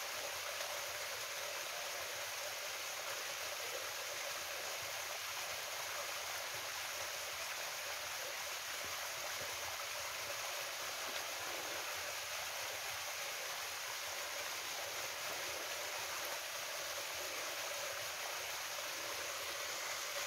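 Waterfall on a mountain stream, falling water rushing steadily.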